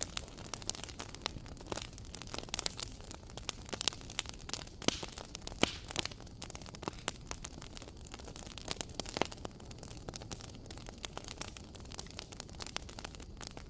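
Wood fire burning in a fireplace, crackling with frequent irregular sharp pops and snaps over a low steady rushing of the flames.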